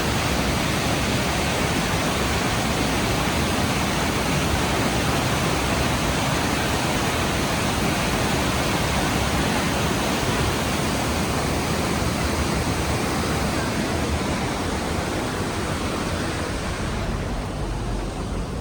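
The Rhine Falls waterfall rushing: a steady, dense roar of falling water. Near the end it grows a little quieter and duller.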